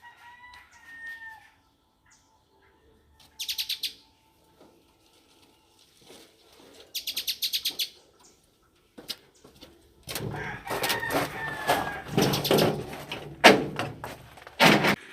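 Bird wings flapping in two short, rapid bursts a few seconds apart, followed by a louder, busier stretch of sound over the last five seconds.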